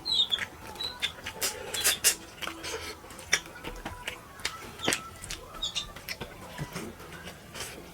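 Close-up eating sounds: irregular wet smacks and clicks of chewing a mouthful of curry and rice, with a few faint high chirps.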